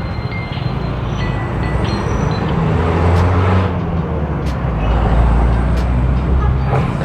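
Motorcycle engines running in road traffic, a steady low rumble that grows louder from about three seconds in.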